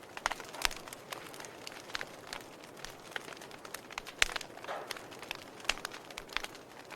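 Wood fire burning in a fireplace, crackling with irregular sharp pops over a soft hiss; the loudest pops come about half a second in and about four seconds in.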